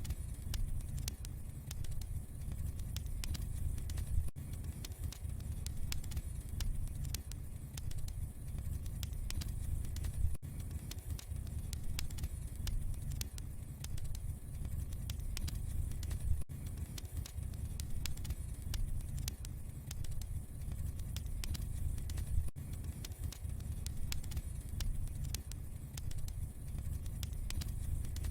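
Wood fire burning in a fireplace, crackling with many small, irregular pops over a steady low rumble, with a very brief dropout about every six seconds.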